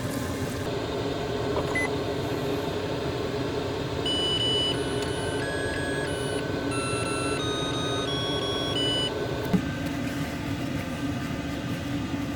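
An electronic rice cooker plays its short start-up tune of beeps, stepping up and down in pitch for about five seconds, over a steady hum.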